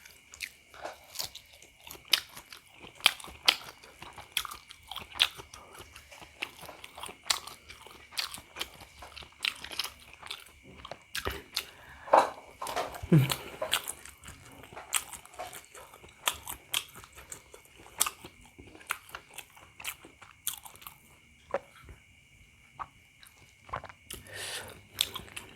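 Close-miked chewing of spicy meatballs (pentol bakso): irregular wet mouth clicks and smacks, with a short gulping sound about halfway through.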